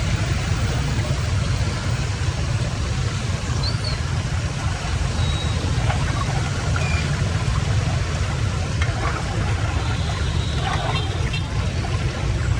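Steady rush of draining floodwater with a deep, even rumble, with a few faint short high chirps over it.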